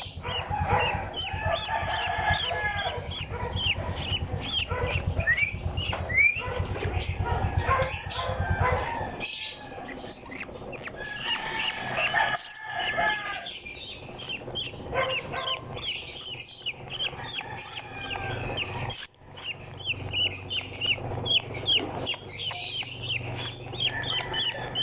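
Young African lovebird begging during hand-feeding: a long run of rapid, short squeaky chirps, with a low rattling buzz underneath for much of it.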